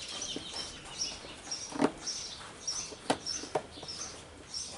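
A few sharp metal clicks and knocks as a connector pin is pushed by hand through the lacing of a New Holland 648 baler belt. Under them runs a string of short high chirps, about two a second.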